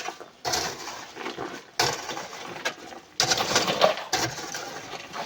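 Loose stone, coral and sand clattering as it is loaded into a truck, in three sudden bursts about a second and a half apart, each sliding away over about a second.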